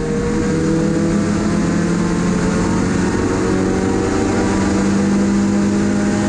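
Supercharged 4A-GZE four-cylinder engine of a Toyota AE101 Corolla Levin race car pulling hard, its pitch climbing slowly and steadily as the car accelerates.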